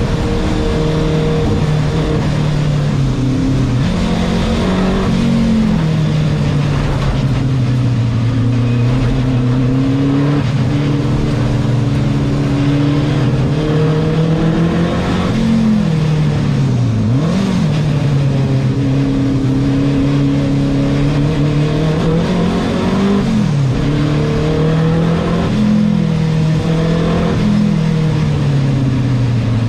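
Renault 5 Turbo 2's turbocharged four-cylinder engine racing, heard from inside the cabin. The revs climb and drop again and again through the gear changes, with a quick plunge and rise in pitch about halfway through.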